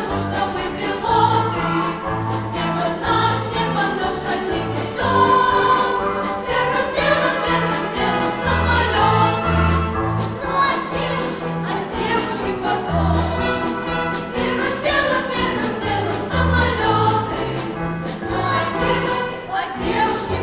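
Pop-symphony orchestra playing with voices singing along, over a bass line that moves in steady notes and a drum beat.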